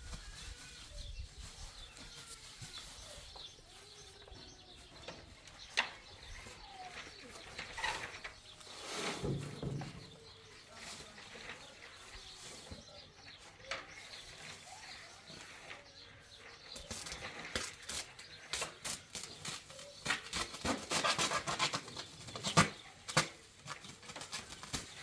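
A farm animal bleats once, about nine seconds in, among faint bird chirps; in the second half comes a run of rapid rustling and clicking.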